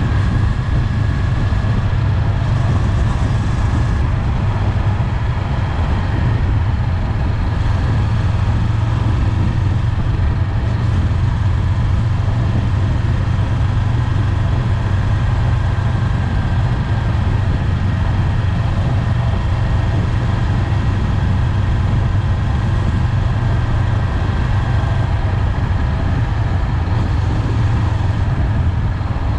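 Honda 400X motorcycle's parallel-twin engine running at a steady cruise, a constant low drone mixed with wind and road noise.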